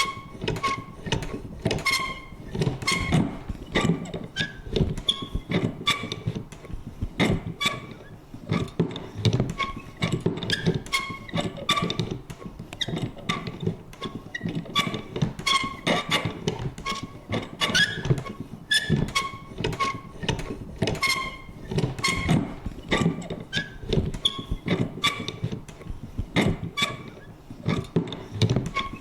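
Vintage paper punch clacking over and over, several irregular clicks and knocks a second, mixed with short high creaks at changing pitches.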